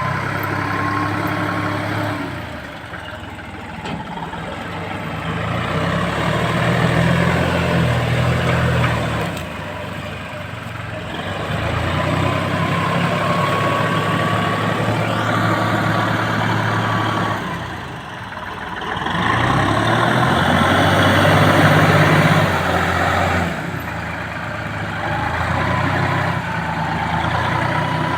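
Massey Ferguson MF4707 tractor's diesel engine running, its level swelling and dipping several times.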